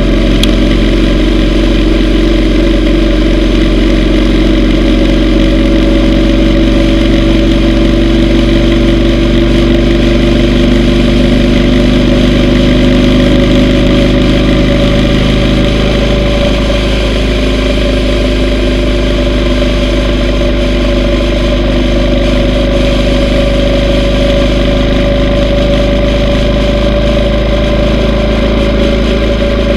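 Yamaha V Star 950's air-cooled V-twin engine running steadily while riding, its pitch drifting slightly up and down.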